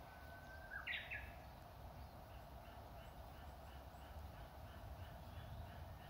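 A Japanese bush warbler (uguisu) sings its "hoo-hokekyo" song once, about a second in: a long steady whistle, then a quick rising flourish. Faint short chirps follow, repeating two or three times a second, over a steady low hum.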